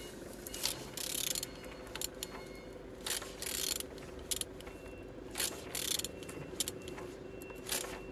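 Nissan HR16DE 1.6-litre four-cylinder engine being turned over by hand with a wrench, in several strokes with clicks between them; it turns freely, showing the engine is not seized.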